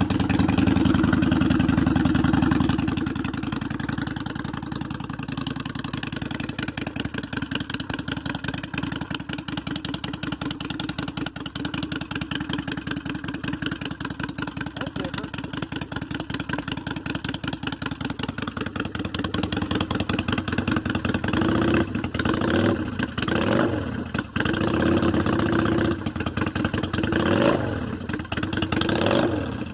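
2002 Honda Shadow VLX 600's V-twin running through new Cobra drag pipes with the baffles in. Just started, it idles loud for the first few seconds, then settles to a steady idle. Near the end it is revved in several short throttle blips.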